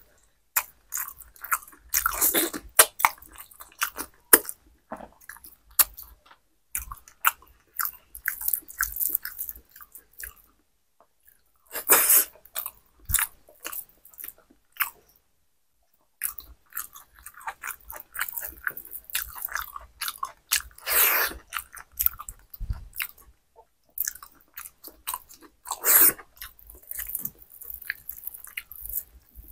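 Close-miked chewing and wet mouth sounds of a person eating khichuri by hand, coming in bursts with brief pauses between mouthfuls.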